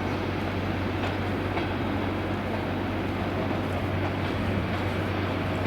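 Train running through the station: a steady low rumble with a few faint clicks.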